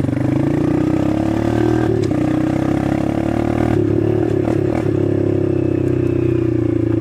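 Dirt bike engine running under throttle while being ridden, its pitch climbing, dipping briefly about two seconds in, then climbing again. There is a rattling clatter a little past the middle, and then the engine runs steady.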